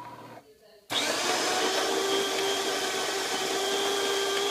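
DeLonghi Magnifica espresso machine's built-in grinder starting abruptly about a second in and running with a steady, loud whir, grinding beans for a shot.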